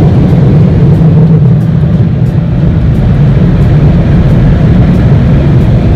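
Automatic car wash dryer blowers blowing air over the car, heard from inside the cabin as a loud, steady rushing noise with a deep low rumble.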